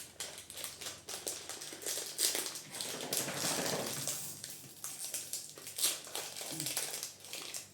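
Irregular rustling with light taps and clicks, busiest in the middle, as things are handled.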